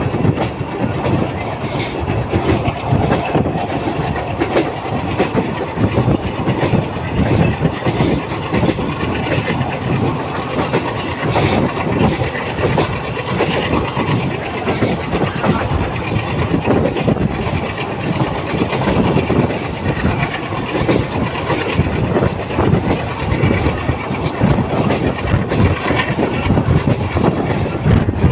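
A passenger train running along a long railway viaduct, heard from the coach's open door: a loud, steady rumble of wheels on rail with a rapid, uneven clatter of knocks.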